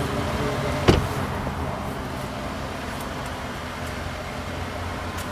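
Mercedes-AMG A35's 2.0-litre turbocharged four-cylinder idling steadily at raised revs after a start with the paddle shifter held, giving a louder exhaust note; a single sharp knock about a second in.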